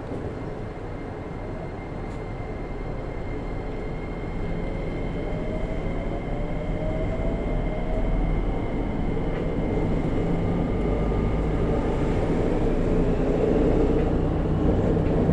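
Interior running noise of a JR Kyushu 303 series electric train, heard from above a motor bogie: a steady low rumble that slowly grows louder, with faint rising tones in the middle.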